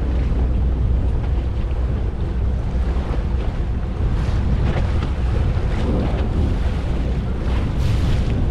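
Steady low rumble of a fishing boat under way, with wind buffeting the microphone and water noise around the hull.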